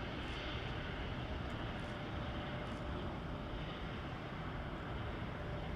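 Steady distant jet engine noise, an even rumble and hiss with a faint steady whine.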